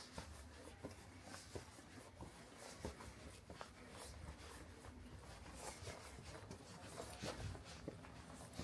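Faint footsteps on a street, heard as short light taps at an uneven walking pace over quiet outdoor ambience with a low rumble.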